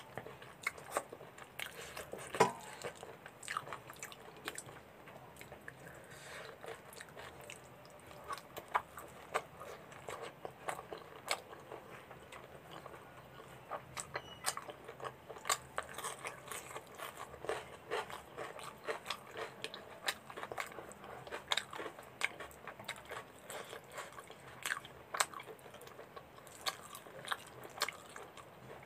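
A person eating mutton and puri in gravy by hand: wet chewing and biting with frequent sharp mouth smacks and clicks and some crunches, the loudest smack about two and a half seconds in.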